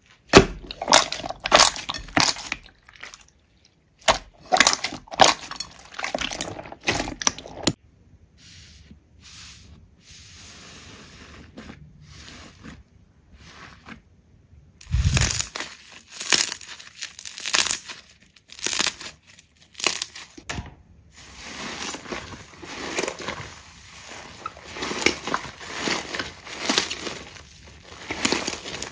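Slime being squeezed and pressed by hand, giving clusters of crackling and squishing sounds, with a few short pauses between them.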